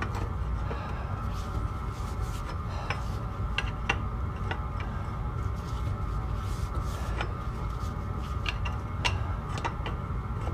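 A machine running steadily with a low hum and a faint steady whine, with scattered light clicks and ticks of metal.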